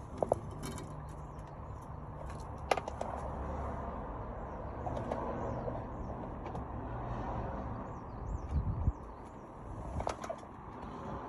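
Background noise with a steady low hum, a few sharp knocks and clicks, and birds chirping faintly.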